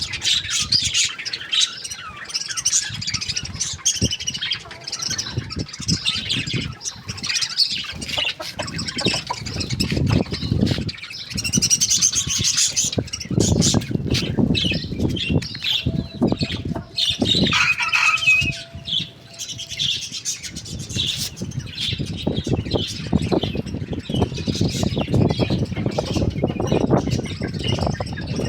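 Birds chirping and squawking continuously, with repeated low flapping or rustling noises underneath.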